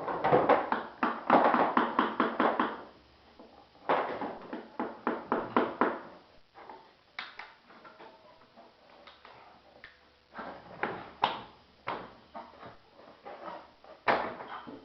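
Hammer tapping on a wing mold to knock it free of its plug: quick runs of several taps a second, then scattered single knocks, with a sharp knock near the end.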